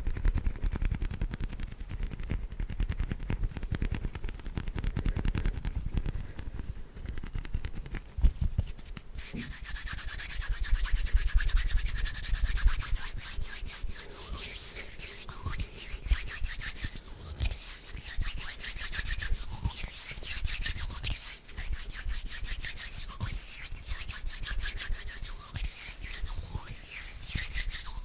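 Bare hands rubbing and fluttering close to the microphone: at first a muffled, low fluttering, then from about nine seconds in a brighter, hissing rub of skin on skin in quick strokes.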